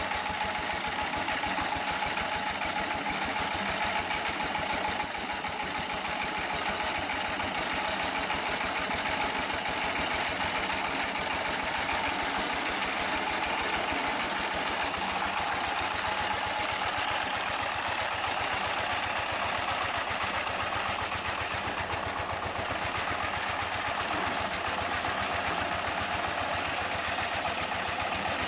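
Diesel power tiller engine running steadily with a fast, even knocking beat.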